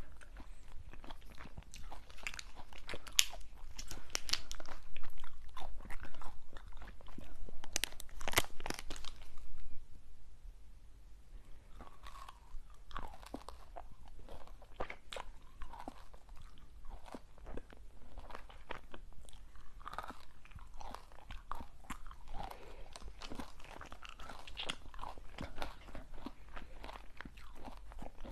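Close-miked crunching and chewing of hard, crisp snacks: loud crackling bites for about the first ten seconds, then softer, quieter chewing.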